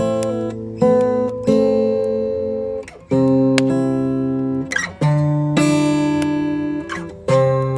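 Acoustic guitar strumming slow chords, each left to ring out before the next, a new strum every second or two.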